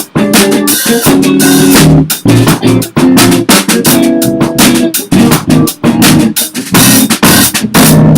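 Electric bass, drum kit and electric guitar playing together in a steady instrumental rock groove, with drum hits several times a second over the bass line.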